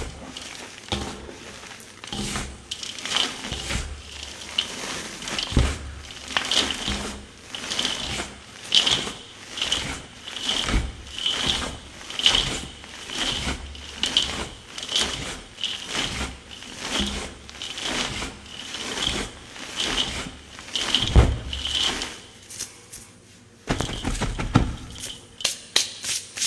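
Slabs of gym chalk squeezed and crushed by hand, each squeeze a crunchy, squeaky crumble, repeated about once a second. The crunching pauses briefly a little before the end, then comes back in a few quick squeezes.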